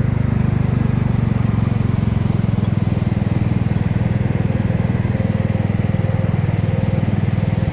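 Kymco People 250 scooter's single-cylinder four-stroke engine running steadily under way, its exhaust leaks patched with JB Weld high-heat epoxy.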